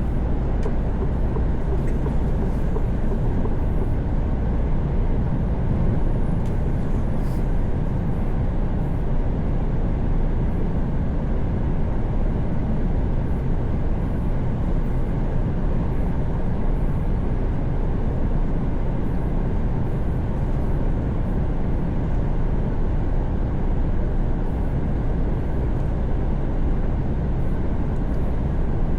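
Mercedes-Benz Actros truck cruising at steady highway speed, heard from the driver's cab: a constant low engine drone mixed with tyre and road noise, with no changes in pace.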